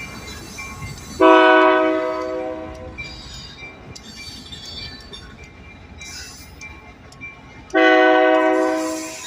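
Diesel locomotive air horn sounding two blasts, each a chord of several notes: a longer one about a second in and a shorter one near the end. A rail-yard rumble and faint high squeaks run underneath.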